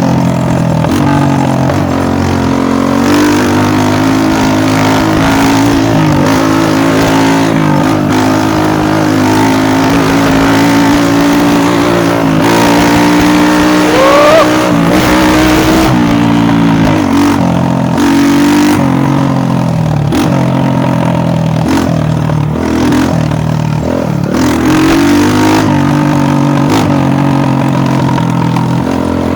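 Dirt bike engine running without a break, its pitch rising and falling as the throttle opens and closes.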